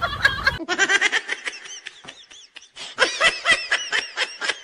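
A person laughing hard in rapid short pulses, several a second. The laugh dies down briefly around the middle and then breaks out loudly again about three seconds in.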